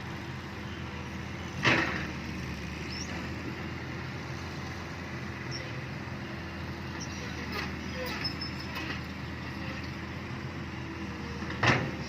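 Excavator diesel engine running steadily at work, with two short loud clanks, one a couple of seconds in and one near the end, and a few lighter knocks in between.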